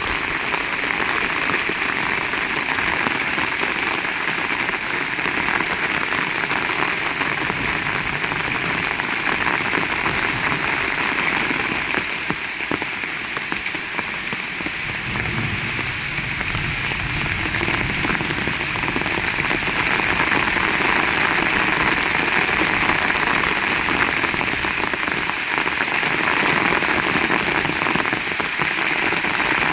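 Heavy rain falling steadily: a dense, even hiss of many drops striking the ground and nearby surfaces.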